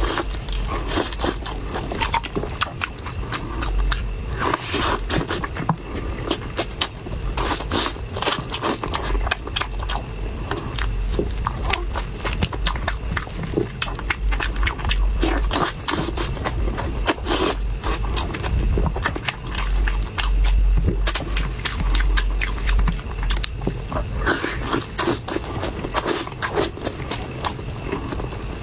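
Close-up eating sounds: dense crunching, biting and chewing clicks over a low rumble.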